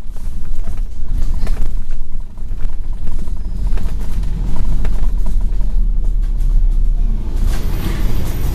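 Scania N113 bus running along the road: a steady low engine rumble with light rattles over it.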